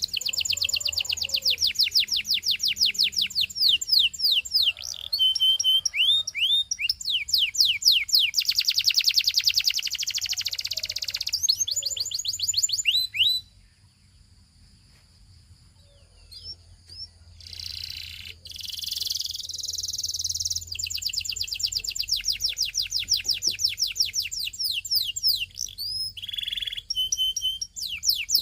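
Canary singing: fast, high-pitched trills of sharp down-swept notes and rolling phrases. About halfway through the song drops to a faint held whistle for a few seconds, then the trills start again.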